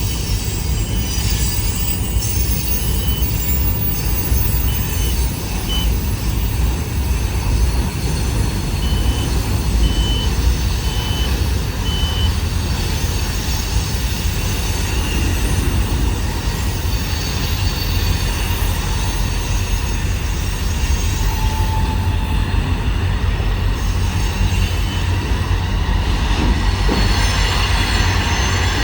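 Passenger train rolling across a railroad bridge: a steady rumble of wheels on rail, with short high-pitched wheel squeals coming and going in the first half as the cars take the curves.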